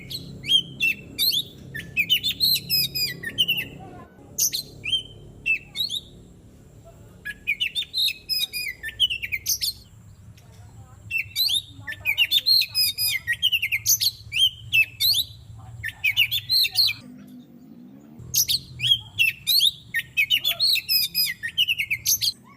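Oriental magpie-robin (kacer) singing: bouts of rapid, varied chirps and whistled phrases broken by short pauses, over a faint low hum.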